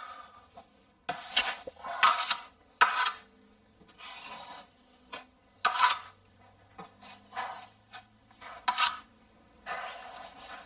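Rough scraping strokes against the torn edges of a hole in GIB plasterboard, cleaning up the ragged edges before a patch goes over it. There are about ten separate, irregular strokes, each under half a second.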